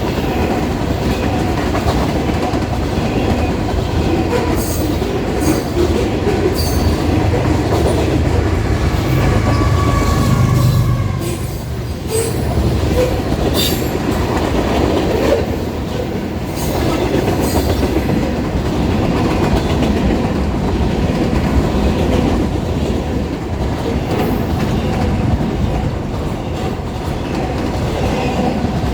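Union Pacific freight train rolling past, its wagons' wheels clicking irregularly over rail joints above a steady rumble, with a brief faint wheel squeal about a third of the way through.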